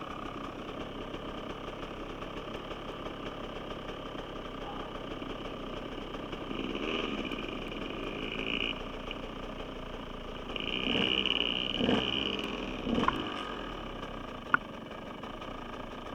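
Dirt bike engine running at low revs, opened up in two bursts of throttle, one about seven seconds in and a longer one about eleven seconds in, with a sharp click near the end.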